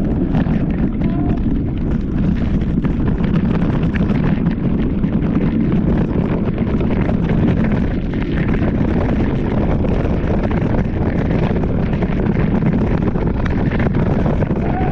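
Steady, loud wind buffeting the microphone of a moving rider's camera.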